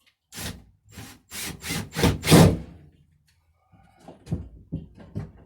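Wooden coop door scraping and rubbing against its frame in about six strokes as it is forced shut, the loudest near the middle, followed by a few light knocks of wood.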